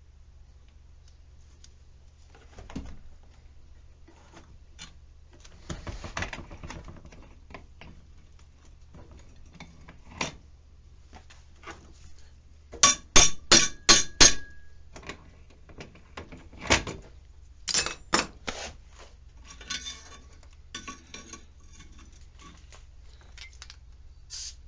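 Metal clanking and knocking as steel dolly parts and tools are handled, with a quick run of five sharp, ringing metal-on-metal strikes about halfway through and more scattered clanks after.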